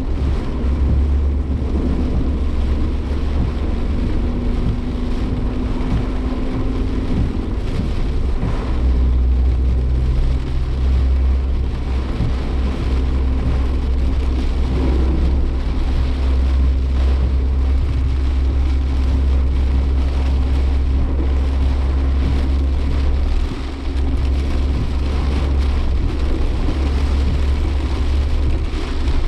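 Inside the cabin of a moving Suzuki Jimny Sierra: a steady low engine and road drone, with rain on the car. The level dips briefly about 23 seconds in.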